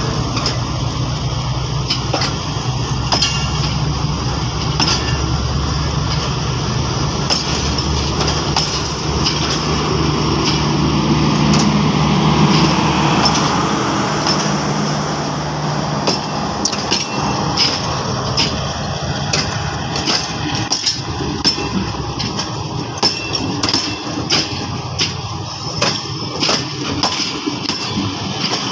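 Passenger coaches rolling past close by: a steady low rumble and hum that fades about halfway, then the wheels clicking over the rail joints in a quickening run of sharp clicks.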